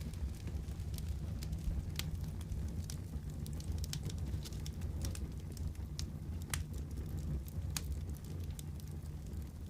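Fireplace fire crackling: irregular sharp pops and snaps over a steady low rumble of the burning fire.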